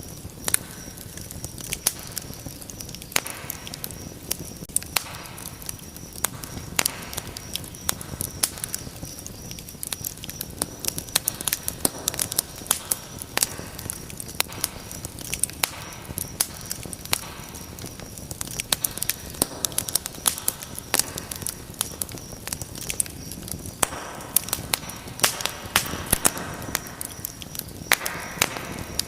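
Wood fire burning in a fireplace, crackling with many sharp irregular pops and snaps over a steady low hiss of flame.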